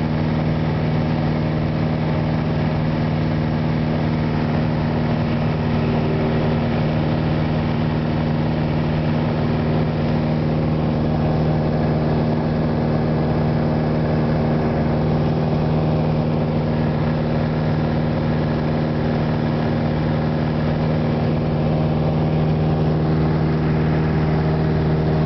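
The piston engine and propeller of a single-engine light aircraft running steadily at constant power, a continuous even drone heard from inside the cabin.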